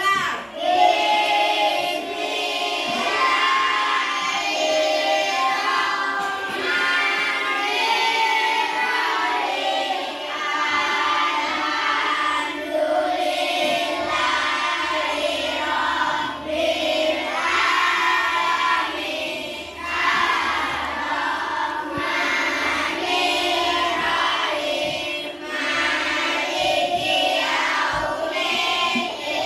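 A class of children chanting a prayer together in unison, in a steady sing-song recitation.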